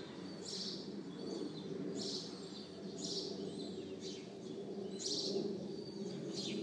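Birds chirping: short high chirps every second or so, irregularly spaced, over a steady low background rumble.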